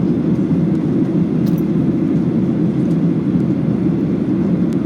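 Steady cabin noise of a Boeing 737-800 in its climb after takeoff: its CFM56 jet engines and the airflow over the fuselage, heard from inside the passenger cabin as an even, low-pitched noise.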